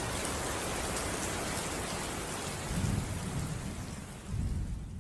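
Steady rain falling, with low thunder rumbles about three seconds in and again near the end, the whole fading out at the close.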